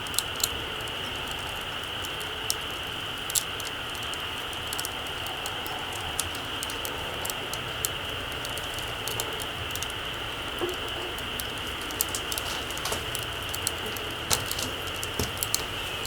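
Small wood campfire crackling, with sparse sharp pops at irregular moments and more of them near the end, over a steady high-pitched hiss.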